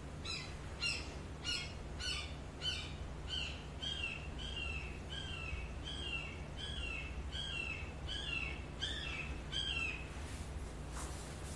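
A bird calling over and over, a steady series of short chirps, each falling in pitch, a little under two a second, stopping shortly before the end. A low steady hum lies underneath.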